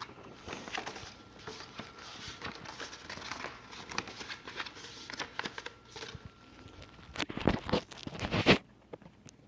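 Paper and packaging being handled, with rustling, crinkling and small clicks, and a louder burst of rustling late on.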